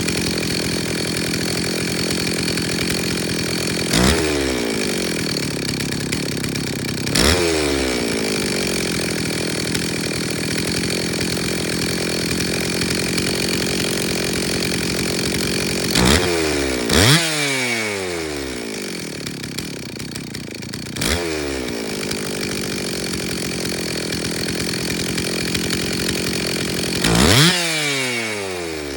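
Stihl 034 two-stroke chainsaw engine idling, with throttle blips about five times: each time the revs jump up sharply and then fall back to idle, twice in quick succession around the middle. The saw is being run and its carburettor fine-tuned after repair.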